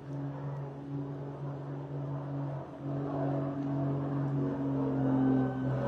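An engine running with a steady low hum, getting a little louder about halfway through.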